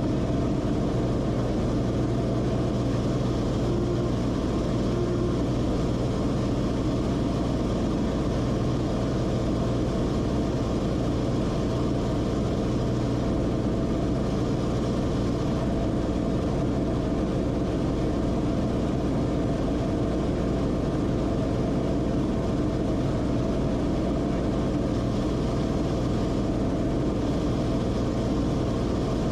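Steady drone of the Cessna Corvalis TTX's turbocharged six-cylinder piston engine and propeller heard inside the cockpit, holding an even pitch and level throughout.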